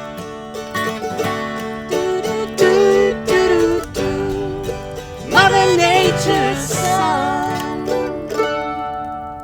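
Acoustic music of plucked strings with a wavering melody line carried over them, fading away near the end.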